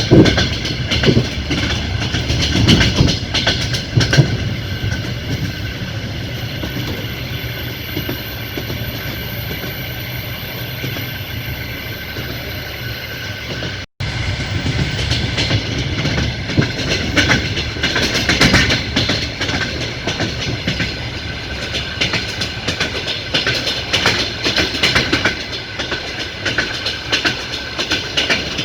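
Passenger train running on the line, its wheels clattering over the rail joints with a constant rolling rumble. The sound cuts out for an instant about halfway, then resumes.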